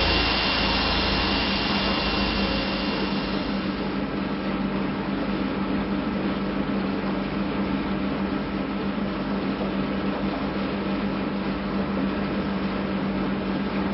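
A steady mechanical drone: an even rushing noise with a low hum that holds without change.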